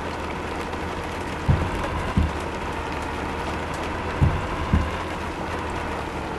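Steady road and engine noise of a moving truck, with pairs of low thumps about every two and a half seconds.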